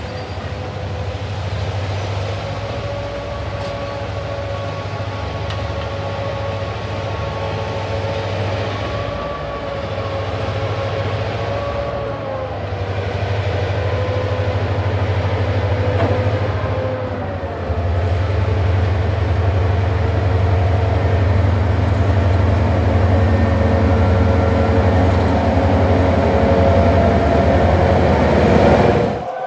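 A diesel-hauled passenger train rolling past on a steel trestle: a steady low engine hum with a wavering whine above it. About two-thirds of the way in, two diesel locomotives, a road-switcher and an F-unit, pass close and their engine sound gets louder, until it cuts off sharply at the end.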